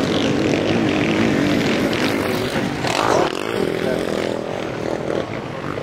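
Sidecar motocross outfits' engines running hard, the pitch wavering up and down as they rev and shift, with a louder surge about halfway through and a slight fade near the end.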